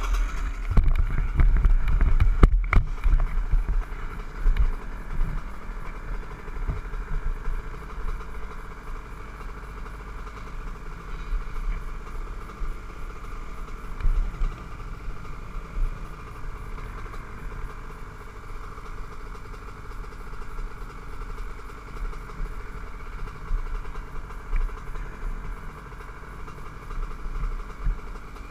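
Honda CR125 two-stroke dirt bike engine running at a fairly steady speed, with heavy low thumps on the microphone in the first few seconds.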